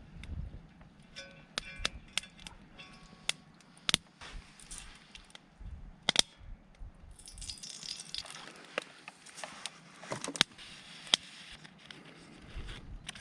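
Wood campfire crackling, with sharp irregular pops and a stretch of hiss in the middle.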